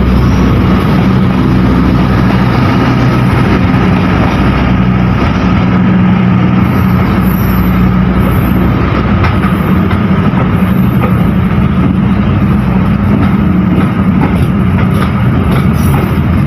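A train running through the station, loud and steady, with a low drone and the rush of wheels on the rails.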